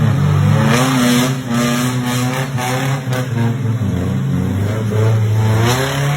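Car engine revving, its pitch rising and falling several times; it starts abruptly at full loudness, like a dropped-in sound effect.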